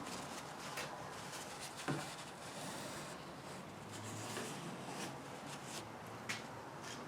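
Faint rubbing and handling sounds with a few light clicks and taps, three or so spread through.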